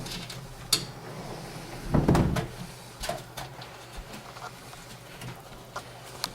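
Light clicks and taps of small metal parts being handled against a computer case, with a sharp click just under a second in and a louder low thump about two seconds in.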